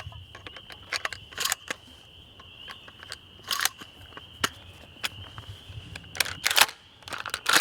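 Footsteps crunching and rustling through dry leaves and brush, a few irregular steps and swishes, over a steady high-pitched trilling chorus in the background.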